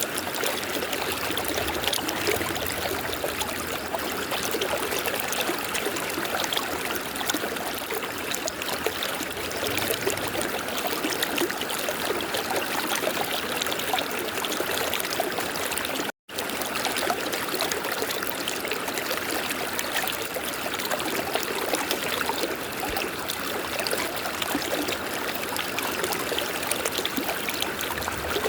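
River water flowing in a steady, even rush, broken once by a split-second dropout about sixteen seconds in.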